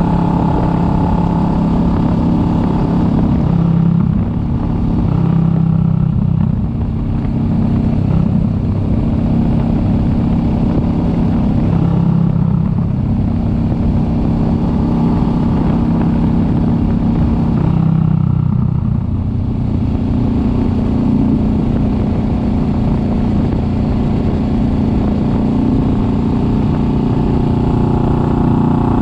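Kawasaki Vulcan S 650's parallel-twin engine running under way, its note shifting up and down in pitch several times with throttle and gear changes and settling lower about two-thirds of the way through.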